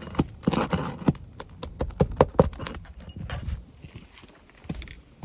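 A metal roof snake knocking and scraping against asphalt shingles as a roofing nail is worked out, in a run of irregular sharp knocks and clicks that bunch together a couple of seconds in.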